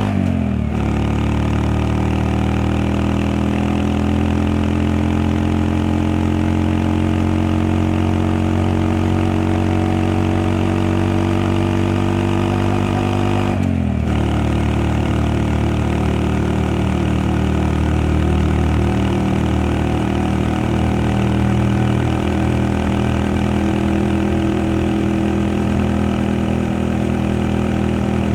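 Honda Monkey 125's single-cylinder four-stroke engine pulling under way. Its pitch climbs slowly and drops sharply at a gearshift at the very start and again about halfway through.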